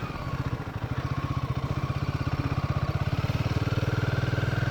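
Royal Enfield Himalayan's single-cylinder engine running at low, steady revs as the motorcycle is ridden slowly over a sandy dirt trail. The engine note picks up a little about a second in.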